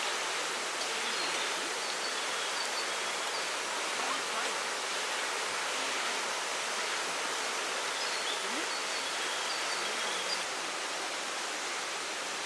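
Steady rushing noise like running water, with short faint high chirps in two clusters, one about a second in and one about eight seconds in.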